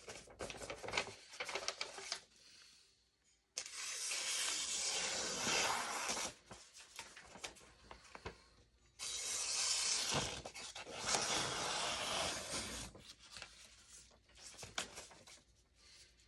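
Paper rustling and tearing as the edge of a hand-forged sword blade slices through it, to test its sharpness. Short rustles come first, then two long, abruptly starting rasping cuts of a few seconds each, then more short rustles.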